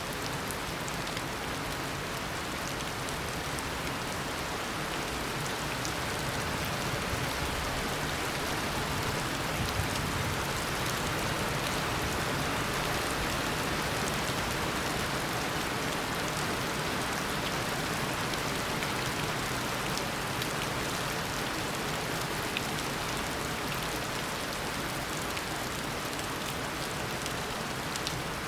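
Heavy tropical rain pouring steadily, a dense hiss of drops with scattered individual splashes, swelling a little in the middle.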